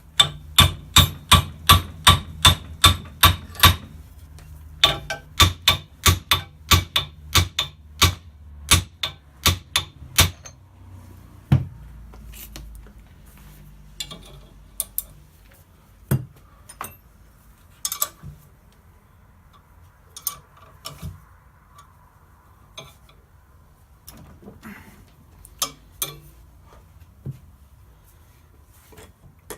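Hammer tapping on a metal car part, in two quick runs of about three strikes a second, then slower scattered taps.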